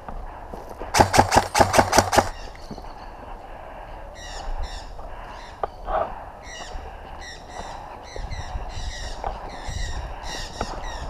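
A quick string of about ten sharp cracks about a second in, then birds calling over and over in short high chirping phrases until the end.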